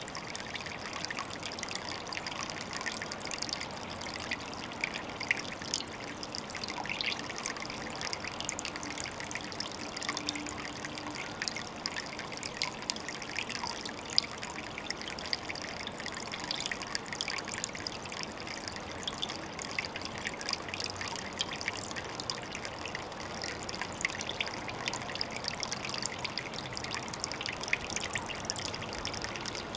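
Water trickling steadily at a pond, with a constant patter of tiny splashes and drips.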